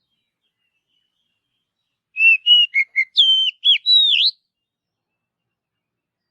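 Oriental magpie-robin (kacer) singing one short phrase of clear whistled notes that slide up and down. The phrase comes about two seconds in and lasts about two seconds.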